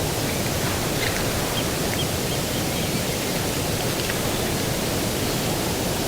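Steady outdoor rushing noise of breeze and distant ocean surf, with a few faint, short bird chirps in the first few seconds.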